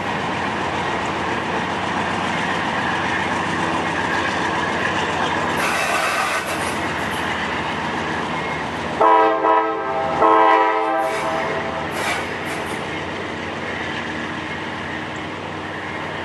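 CSX freight train of auto rack cars rolling past with a steady rumble. About nine seconds in, a diesel locomotive horn sounds twice, the second blast a little longer.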